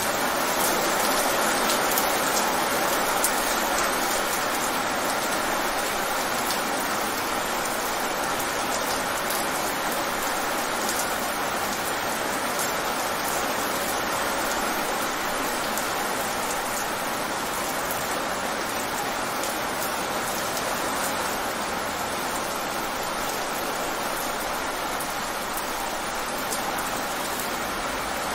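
Rain falling fast on wet pavement: a steady hiss of many drops splashing, with small individual drop ticks scattered through it.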